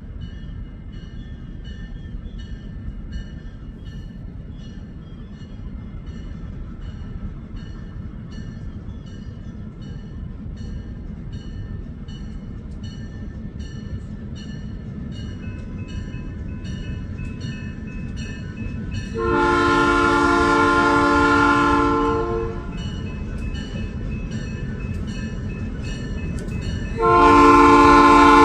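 Diesel locomotive multi-note horn sounding a long blast about two-thirds of the way through and another starting near the end, over a steady rumble and a bell dinging regularly about every 0.7 seconds.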